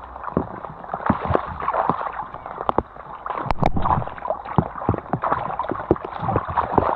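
Heavy rain falling close by, a steady hiss broken by many irregular close knocks and rustles.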